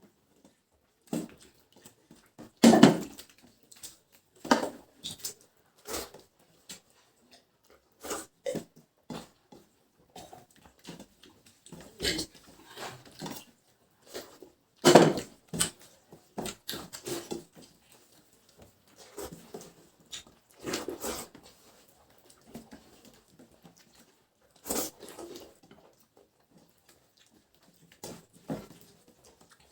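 Two people eating rice and curries by hand: irregular slurps, lip smacks and chewing noises, the loudest about three seconds in and again about fifteen seconds in.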